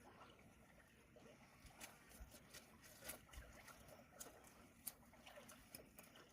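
Near silence with faint, scattered sharp clicks and ticks over a low background hiss.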